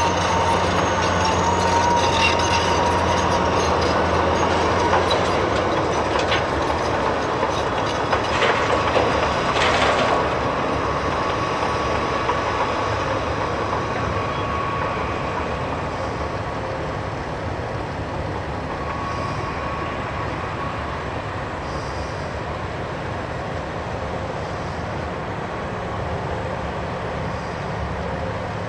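Heavy earthmoving machinery at work: a large hydraulic excavator's diesel engine and hydraulics running, with a high steady whine over a low engine hum. A clatter of heavy impacts comes about eight to ten seconds in, typical of material dropping into a haul truck's bed. The machinery then eases off and the sound gradually gets quieter.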